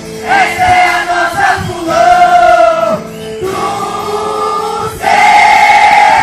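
Music with a group of voices singing in phrases of long held notes, the loudest held note coming near the end.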